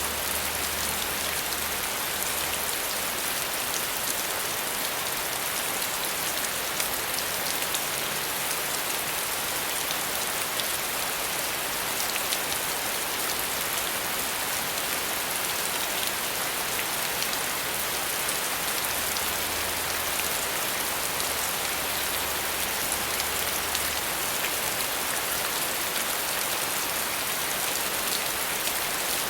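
Steady rain falling on a surface, an even hiss of many drops with fine scattered ticks of individual drops, at a constant level.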